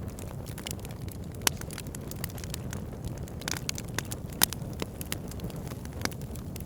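Wood fire burning logs, crackling with frequent sharp pops over a steady low rumble of the flames. The loudest pops come about a second and a half in and again a little past four seconds.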